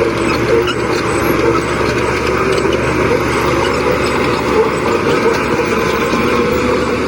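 Diesel engine of a heavy earthmoving machine, a bulldozer or road roller, running steadily.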